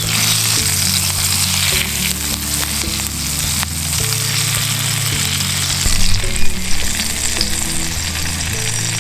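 Chicken thigh sizzling in hot oil in a cast-iron skillet as it is turned with tongs, a steady frying hiss. Background music with held low bass notes plays underneath.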